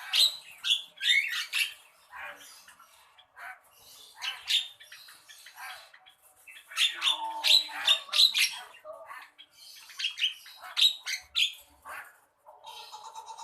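Javan myna (jalak kebo) calling in bursts of harsh, scratchy chatter, each phrase a second or two long with short pauses between, and a buzzier, steadier phrase near the end.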